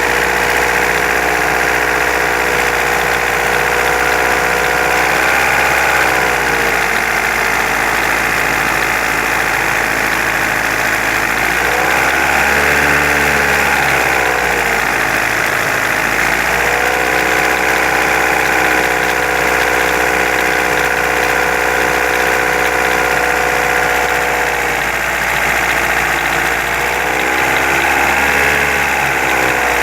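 Engine running at idle with a knock whose source is being sought. Its speed sags and recovers twice, about twelve seconds in and near the end.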